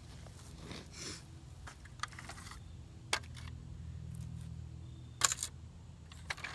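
A few light, sharp clicks and knocks, scattered and the loudest about five seconds in, over a steady low hum.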